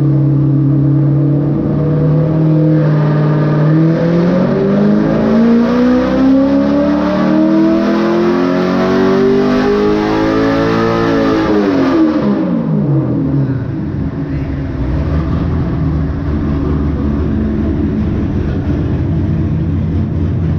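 Corvette C6 Z06's 7.0-litre LS7 V8, with ported heads and a performance cam, making a wide-open-throttle pull on a hub dyno. It holds steady for a couple of seconds, then revs climb smoothly for about nine seconds. The revs then fall away quickly as the throttle closes and settle to a low rumble.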